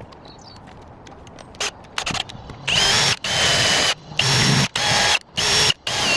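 Cordless drill-driver run in five short bursts, its motor whine rising briefly as each burst starts, as when driving screws into a kitchen unit. A few light knocks come before the first burst.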